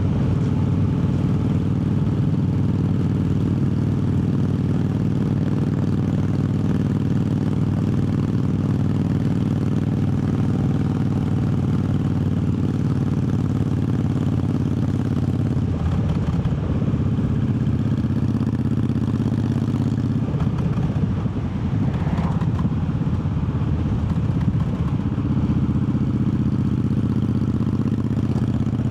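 Triumph Bobber's 1200 cc parallel-twin engine running steadily under way. Its note shifts briefly about sixteen seconds in and again around twenty-one seconds, as with a gear change or a change of throttle.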